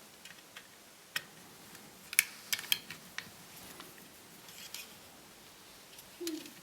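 Small laptop parts and tools being handled during disassembly: a few sharp, scattered clicks and taps, with a cluster of them between one and three seconds in.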